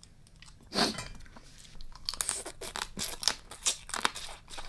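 Close-miked crunching and chewing of food, with one loud sharp crack about a second in, then a run of irregular crunches.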